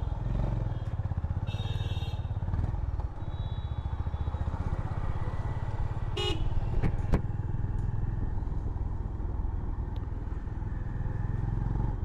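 Honda CB350 Highness's single-cylinder engine running as the motorcycle rides along, with a dense low pulsing beat. Short horn toots sound twice, about a second and a half in and about six seconds in.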